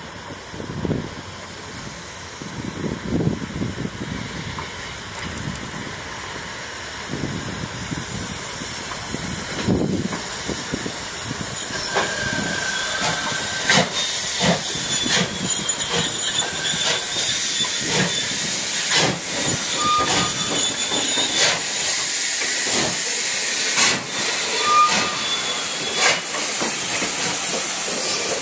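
A steam locomotive drawing steadily closer, hissing steam. A few low beats come in the first seconds, then the hiss grows louder, with a run of sharp knocks and brief squeals from the wheels and running gear in the second half.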